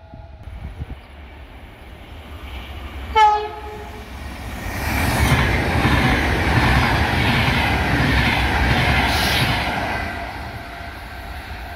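A single short train horn blast about three seconds in, then a CP Alfa Pendular (Class 4000) tilting electric train passing close at speed, its running noise building up, holding and easing off near the end.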